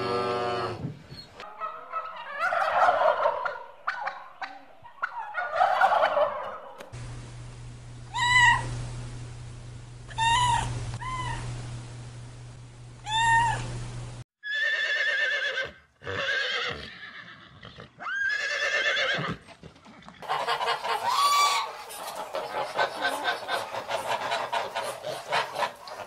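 A string of short farm-animal clips, one after another. A cow's call comes first, then a cat meowing in short calls, and a flock of fowl calling together near the end.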